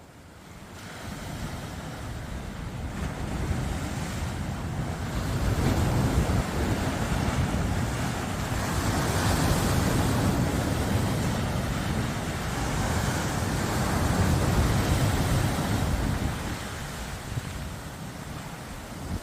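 Strong wind buffeting the microphone in gusts, over the wash of waves breaking on the shore. The gusts build over the first few seconds and ease near the end.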